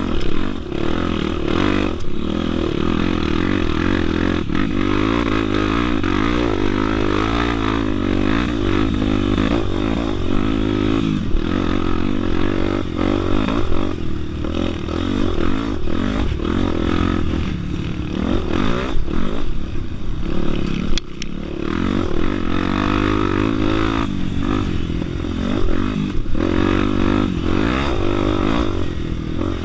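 Single-cylinder Honda Tornado enduro motorcycle engine running under way, its revs repeatedly rising and falling with the throttle.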